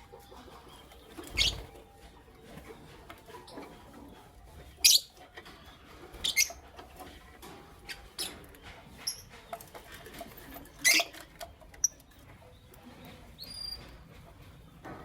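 Pet lovebirds giving short, sharp chirps, five or six loud ones spread through, with a few brief higher whistled notes, and soft pattering and rustling between calls.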